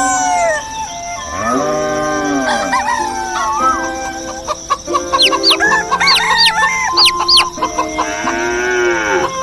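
Roosters crowing, several long arched crows one after another. Small birds chirp in quick high notes from about five to seven and a half seconds in.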